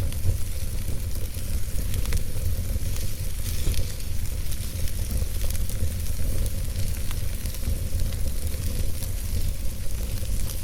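Wood fire burning in a fireplace: logs crackling, with scattered sharp pops over a steady low rumble of the flames.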